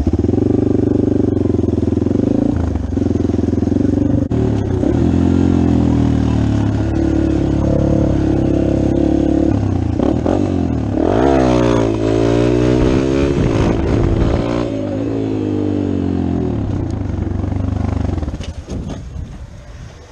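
Dirt bike engine running, then revved up and down several times about halfway through, before the sound falls away near the end.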